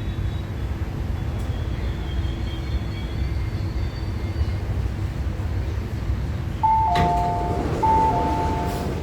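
MTR Tuen Ma line IKK-Train rumbling with a faint motor whine as it runs into a station, then, about two-thirds of the way in, a knock and the two-note door chime, higher note then lower, sounding twice as the doors open.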